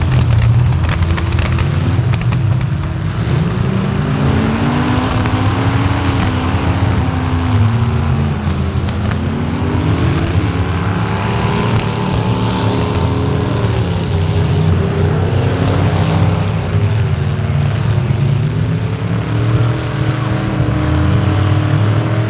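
Truck engines running loud and revving up and down again and again, with a few sharp knocks in the first couple of seconds.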